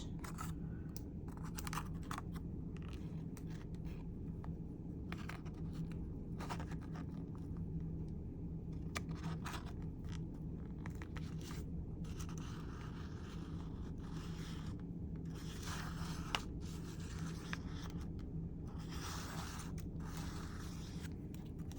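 Paper being handled and rubbed down by hand: short scrapes and rustles, scattered at first and coming more often in the second half, over a steady low hum.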